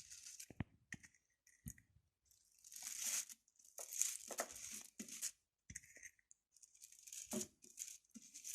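Paintbrush loaded with thick paint rubbing across thick paper in short, irregular faint strokes, with pauses between them.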